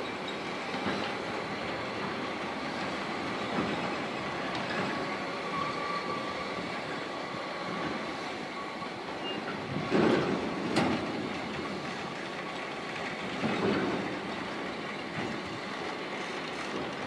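Freight wagons rolling slowly past on the rails, covered hopper wagons and boxcars, with a steady rumble of wheels and a faint thin wheel squeal. A few louder clanking knocks come about ten seconds in and again near fourteen seconds.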